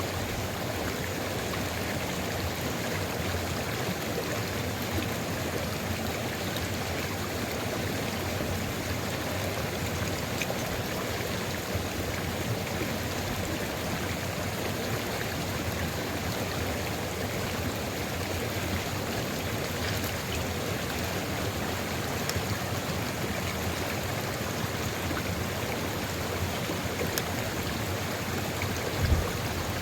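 Sulfur river water flowing steadily, an even rushing babble with no change in level. Near the end there is one brief low thud.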